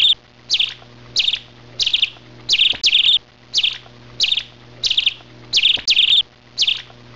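A small bird chirping over and over: a short, bright chirp about every two-thirds of a second, twice in quick pairs, over a faint steady hum.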